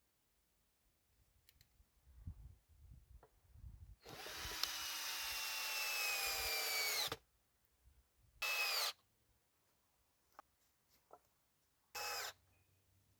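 Power drill run in three bursts: a first run of about three seconds whose pitch sags slightly before it stops abruptly, then two short bursts. Soft knocks of handling come just before the first run.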